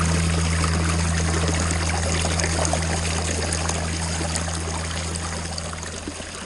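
Water splashing and trickling down a pondless waterfall's rock stream, a steady rushing with a low hum underneath, slowly fading out near the end.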